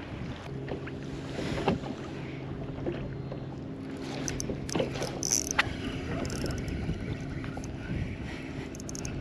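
Fishing kayak on the water: water lapping at the hull and light wind on the microphone, with scattered small clicks and knocks of handling gear and a low steady hum that drops in and shifts pitch about halfway through.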